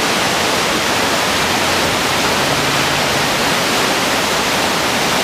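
Trahlyta Falls waterfall: water pouring and splashing in a steady, loud rush.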